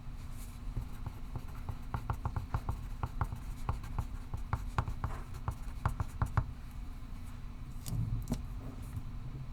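Pencil writing on paper: a run of quick, short scratching strokes from about two seconds in until past the middle, then a couple of soft knocks, over a low steady hum.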